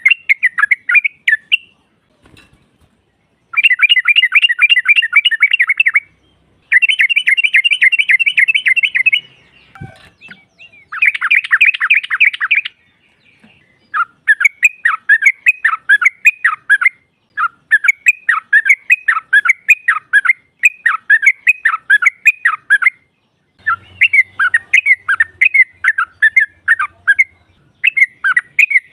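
Female yellow-vented bulbul (trucuk) calling in rapid chattering runs, each a quick string of repeated notes lasting two to three seconds, separated by short pauses.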